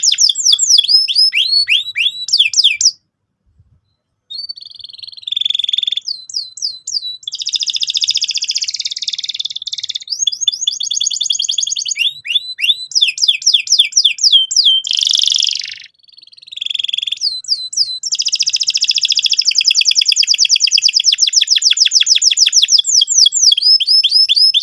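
Domestic canary singing a fast, rolling song: long trills of rapid, repeated downward-sweeping chirps, with a brief pause about three seconds in.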